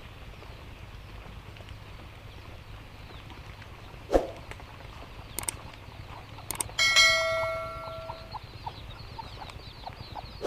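A sharp knock and a few light clicks, then a single metallic bell-like ring that dies away over about a second and a half, over a steady faint hiss.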